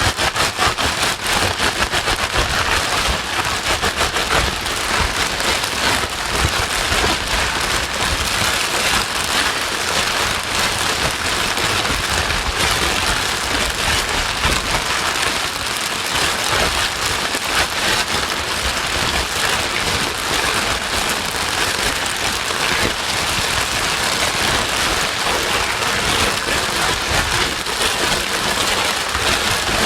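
Steady rain used as white noise: an even hiss with a dense patter of fine drops, holding level without a break.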